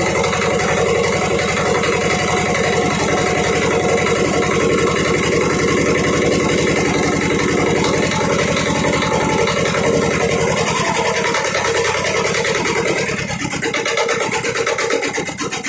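Yanmar Prince YT500 tiller's diesel engine idling with a steady, even knock, then slowing in the last couple of seconds, its beats spreading apart and growing uneven as it runs down toward a stop.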